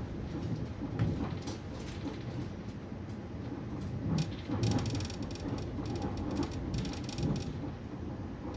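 ÖBB Railjet passenger train running along the line, heard from inside the carriage: a steady low rumble with irregular knocks from the wheels on the track. Twice around the middle there is a short stretch of fine, high crackling.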